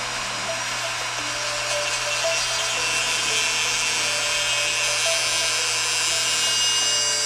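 Dremel rotary tool with a carbon cutting wheel running and cutting into a steel Allen key: a steady motor whine with a grinding hiss that grows louder about two seconds in as the wheel bites.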